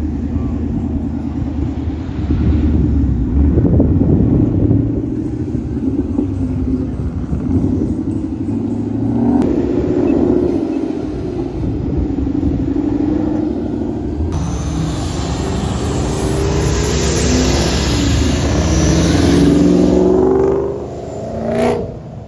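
Ford Mustangs' engines rumbling and revving as the cars pull out and drive past, heard as a run of short clips with abrupt changes between them. Near the end one car accelerates hard: the engine pitch climbs under a loud hiss, then cuts off suddenly.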